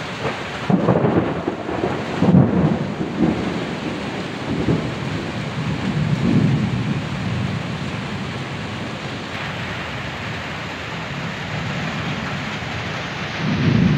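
Heavy rain pouring down on tree leaves and a corrugated metal roof, a steady dense hiss. Several short low rumbles rise over it in the first seven seconds and again near the end.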